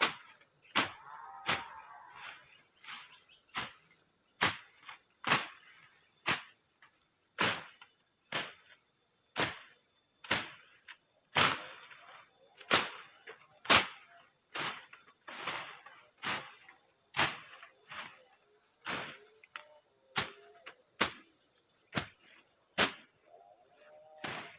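A tool striking wood over and over at a steady work pace, about one sharp blow a second, as the shelter is built. Behind it runs a steady high-pitched drone of jungle insects.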